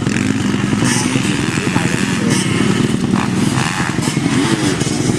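Off-road motocross motorcycle engines running hard, the pitch rising and falling as the bikes rev.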